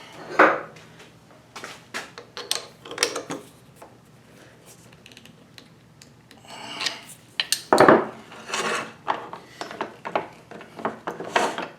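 Wood blank being fitted into a metal self-centering lathe jaw chuck by hand: scattered knocks, clinks and scraping of wood against metal jaws. The loudest knocks come just after the start and about eight seconds in.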